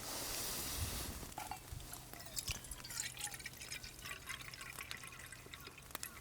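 Water pouring for about a second, then scattered small clicks and taps.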